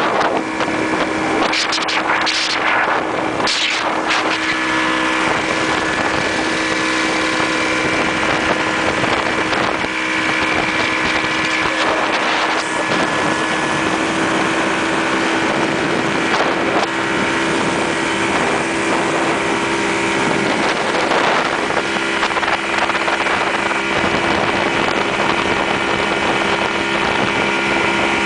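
Motorboat engine running steadily under way, with wind buffeting the microphone, strongest in gusts during the first few seconds.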